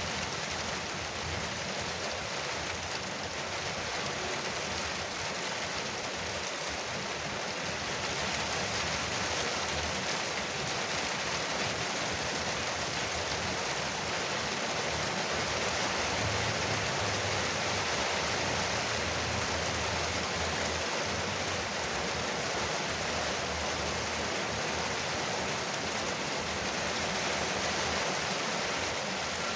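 Rain falling steadily on a porch roof, a dense, even hiss that grows slightly louder about eight seconds in.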